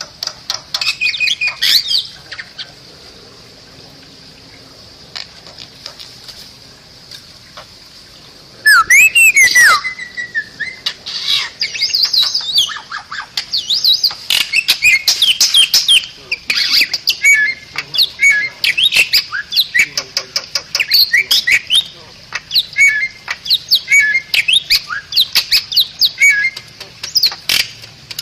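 Bali myna singing: a short burst of chatter, a pause, then a loud call of sweeping, rising and falling whistles about eight seconds in, followed by a long run of rapid harsh chattering and whistled notes. A steady high hiss runs underneath.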